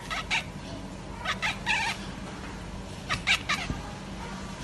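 A cat making short, high meows in quick groups of two or three, three groups about a second apart, over a steady low hum.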